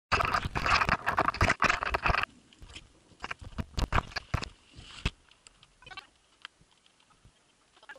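Raindrops pattering: a dense, loud run of taps for about the first two seconds that cuts off sharply, then scattered single taps of drops that thin out and fade toward the end.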